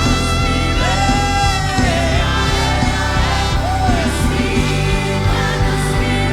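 Live gospel worship music: a band playing with a steady bass while singers hold long notes with vibrato.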